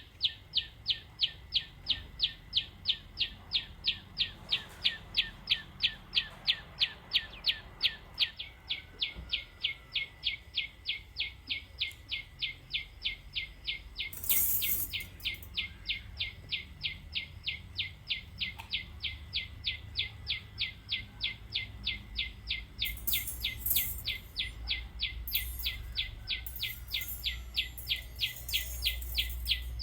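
A bird calling over and over in short, evenly spaced chirps, about three a second. Brief hissy rustles come in about halfway and again near the end.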